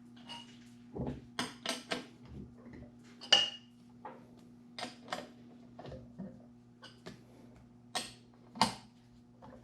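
Metal tools and parts clinking and clanking as they are handled, about a dozen irregular knocks with a brief ring, over a steady low hum.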